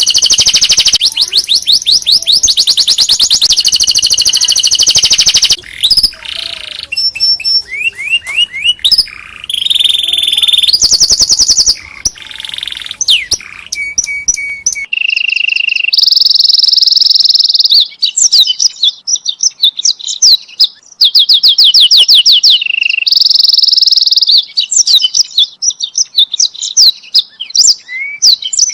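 Canary singing a loud, fast song of rapid trills and rolled, repeated syllables, with some held steady notes, broken by several short pauses between phrases.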